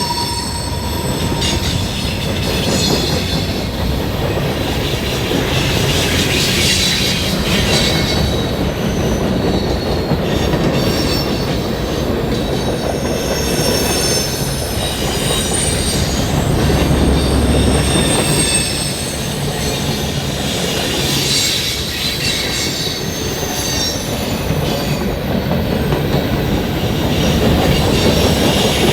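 Railroad cars rolling past with a steady rumble, their wheels squealing on the rail in high thin tones that come and go.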